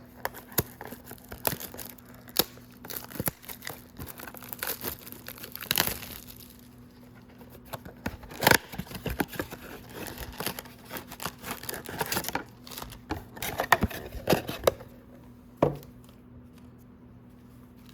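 Crinkling and tearing of packaging as a trading-card blaster box is unwrapped and opened, with irregular crackles and rustles of handling.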